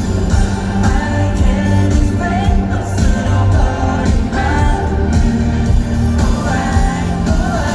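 A K-pop boy group singing a pop song live in concert over its backing music, with a steady bass line under the sung melody.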